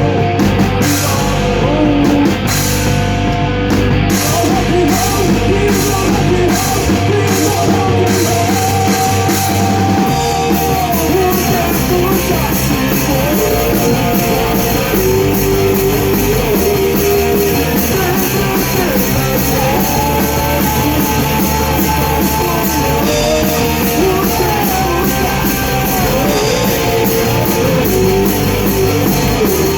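Rock band playing live: drum kit with cymbals keeping time, electric guitars and bass, and a melodic line over the top. The playing is loud and steady throughout, and the drum part turns busier and denser about ten seconds in.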